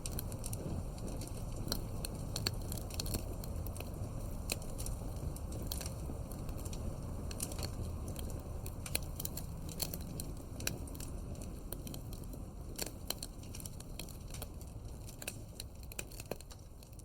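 Campfire crackling: irregular sharp pops and snaps of burning wood over a low, steady rumble of flames, fading out near the end.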